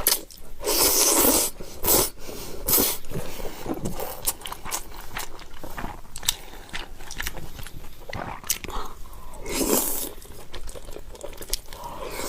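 Close-miked eating: a person biting and chewing, with a few louder crunchy bites in the first three seconds and again near the end, and quick wet mouth clicks in between.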